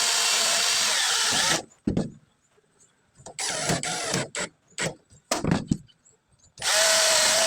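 Power drill running in bursts while fitting aluminium cabinet parts: a long run at the start, a shorter one in the middle and another near the end, with sharp clicks and knocks between the runs.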